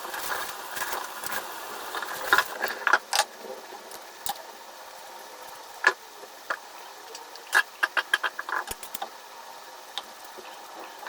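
Kitchen items being handled: a string of clicks and knocks, several in quick succession at the start and again a little past the middle, over a steady hiss.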